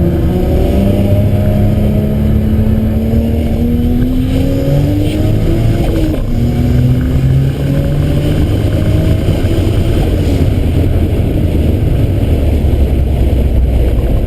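Tuned car engine under hard acceleration, its pitch climbing steadily, dropping sharply about six seconds in, then climbing again.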